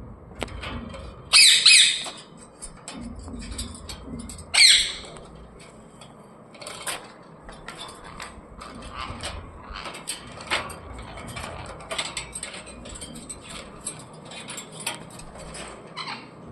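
Pet parrot squawking loudly twice, about a second and a half in and again near five seconds, then a run of short chirps and clicks.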